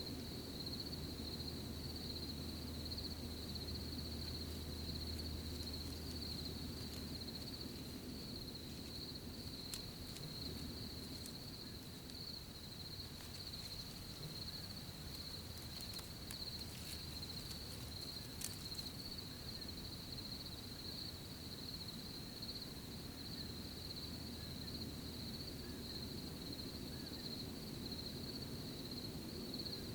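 Crickets chirring in a steady chorus, a continuous high trill, over a low steady rumble of night ambience, with a few faint ticks about midway.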